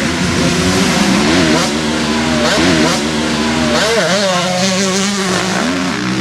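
Several motocross bikes racing, their engines revving up and down as the riders accelerate and shift, the pitches overlapping and bending.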